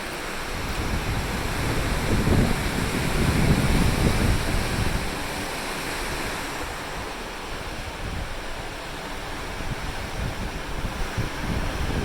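Ocean waves washing below a moving cruise ship, with wind buffeting the microphone in gusts, strongest about two to five seconds in and again near the end.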